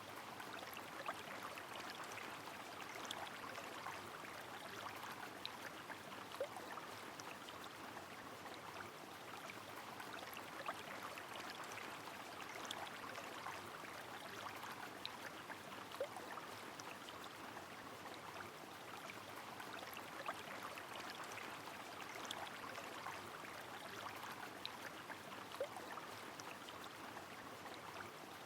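Rain falling on a flowing river: an even, steady rush of water sprinkled with many tiny droplet ticks. A short, faint plink comes three times, about every nine or ten seconds.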